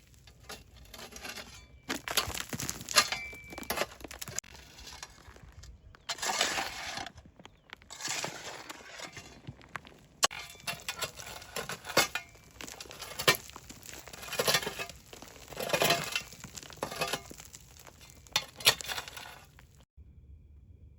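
Kitchen handling sounds: irregular clinks and knocks of dishes and utensils with short bursts of scraping and rustling, stopping suddenly shortly before the end.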